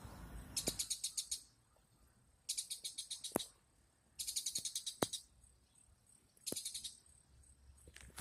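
A bird calling in four short bursts of rapid chattering notes, each under a second long, with a sharp click at the end of several bursts.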